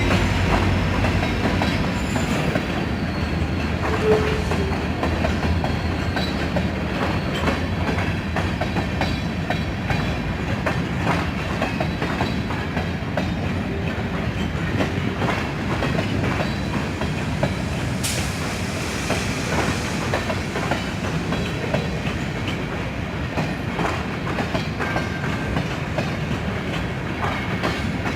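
Freight train cars rolling past at low speed, their wheels clicking steadily over rail joints. A low drone fades out in the first few seconds, and a wheel gives a brief squeal about four seconds in.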